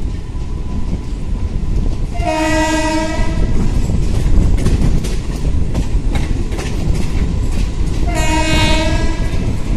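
Train running along the track, a steady rumble with faint rail clicks, while the locomotive's horn sounds two blasts, each about a second long, about six seconds apart. Heard from inside a coach at the open window.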